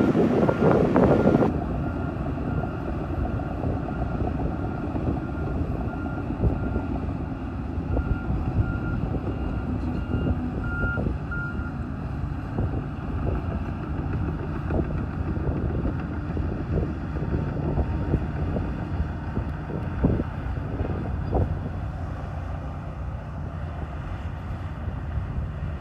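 Bulldozer's diesel engine running under load, with its back-up alarm beeping steadily while it reverses. The engine is louder for the first second and a half. The beeping stops about halfway through, leaving the engine and scattered clanks.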